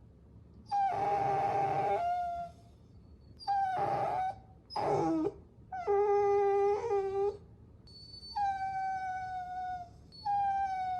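Puppy whining: about six high-pitched whines, each lasting up to a second and a half, with short pauses between them. Several of them sag slightly in pitch as they end.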